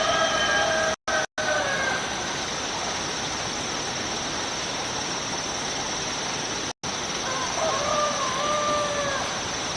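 Steady rush of a running stream with a thin, steady high-pitched whine over it. A rooster crows twice, once at the start and again near the end, each crow drawn out for over a second.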